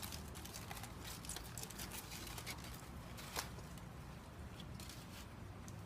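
Faint scattered clicks and light taps from handling food and utensils, with one sharper click about three and a half seconds in, over a low steady hum.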